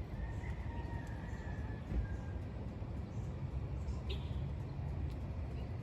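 Outdoor ambience: a steady low rumble, with a faint thin tone in the first two seconds and a single short high chirp about four seconds in.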